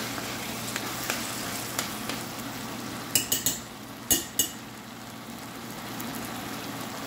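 Tomatoes, onions and tomato paste sizzling in a stainless steel pot as they are stirred, a steady frying hiss. About three and four seconds in come two quick runs of sharp clinks of a utensil against the pot.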